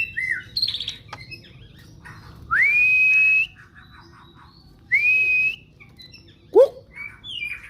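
Male white-rumped shama singing loudly: a few short chirps, then two long whistles that slide up and hold steady, and a sharp rising note that is the loudest of the phrase, with more quick chirps near the end.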